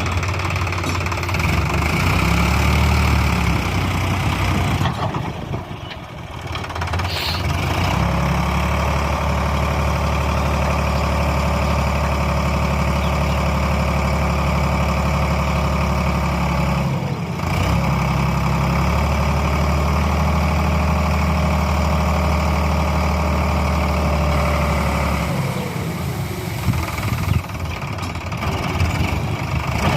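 Tractor's diesel engine running steadily, dipping briefly twice, with its pitch sinking slowly near the end.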